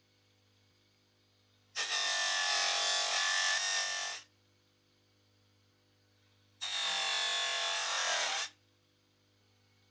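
A small electric motor tool run in two bursts, about two and a half seconds and then about two seconds, each starting and stopping abruptly.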